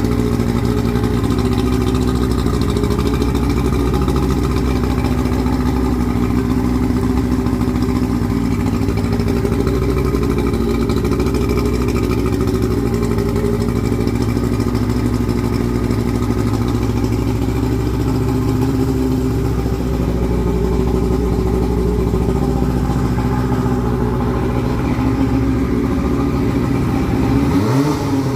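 1976 Evinrude 70 hp inline three-cylinder two-stroke outboard motor running steadily, with the revs briefly rising and falling near the end.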